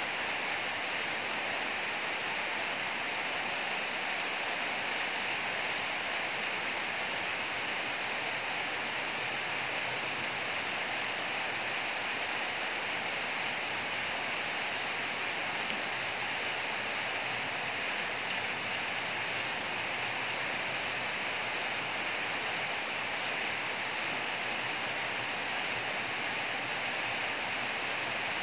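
Heavy rain pouring steadily, an even hiss that never lets up.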